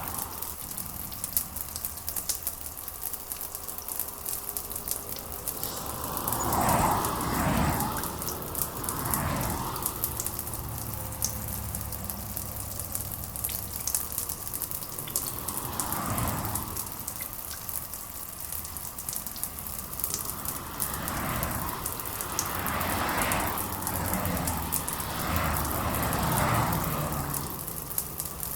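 Steady rain, dense with the fine pattering of drops, swelling briefly several times.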